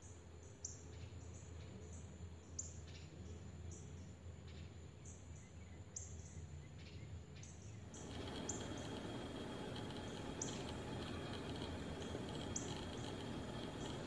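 Small birds chirping: short, high, sharp chirps repeated irregularly, a few every second or two. About eight seconds in, the background changes abruptly to a louder steady hiss with a faint steady high tone, while the chirps carry on more sparsely.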